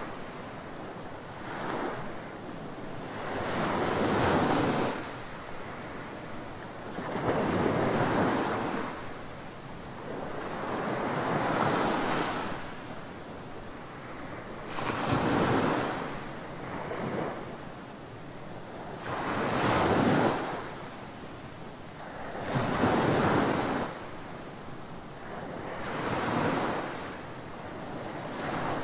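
Ocean surf breaking on a tropical beach, each wave rising to a rush of foam and falling away, about every three to four seconds.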